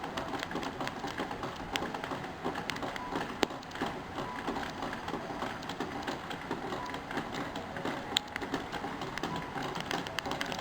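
FM radio static from the small built-in speaker of a cheap MP4 player: a steady crackly hiss of weak reception with scattered clicks.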